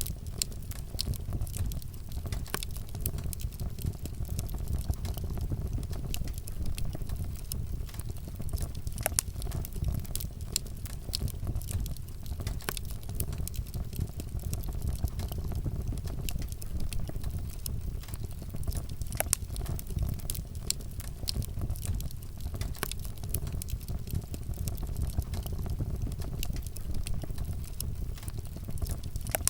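Wood fire burning, with frequent sharp crackles and pops over a steady low rumble of flames.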